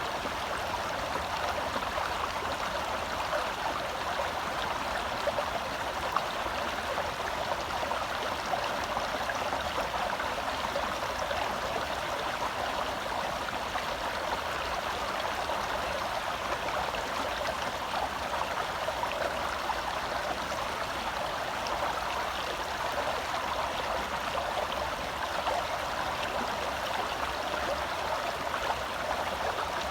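Small forest stream flowing over rocks: a steady, even babble and rush of shallow water.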